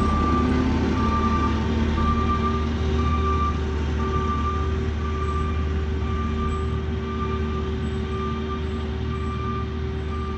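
Earth-moving machine's engine running steadily under a backup alarm beeping over and over as it reverses.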